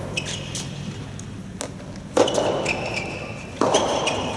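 Soft tennis rally: the soft rubber ball popping off the rackets, with a sharp hit near the middle and another about a second and a half later, each ringing on in the hall. Between the hits, court shoes squeak briefly on the floor.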